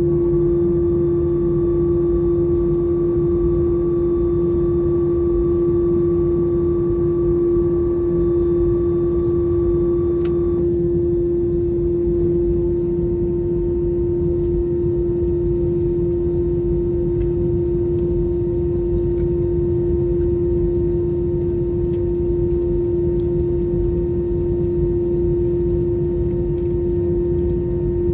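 The CFM56 engines of an Airbus A321, both running at idle before taxi, heard from inside the passenger cabin. There is a steady drone with a strong, steady hum. A fainter higher whine cuts off about ten seconds in, and another faint steady tone comes in a couple of seconds later.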